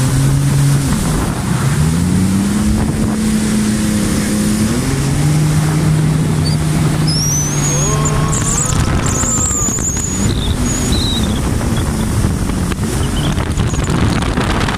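Jet ski engine running under way, its pitch dipping and rising as the throttle changes, with wind buffeting the microphone and water noise. A few brief high squeals partway through.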